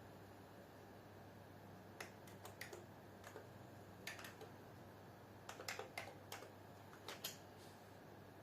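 Keys clicking on a computer keyboard as someone types, in irregular little runs of strokes starting about two seconds in, over a faint steady hum.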